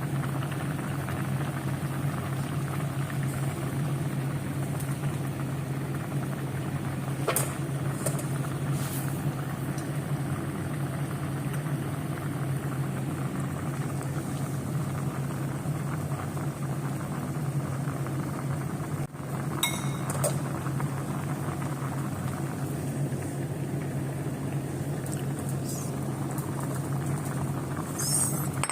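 A few sharp clinks of dishes or utensils over a steady low hum.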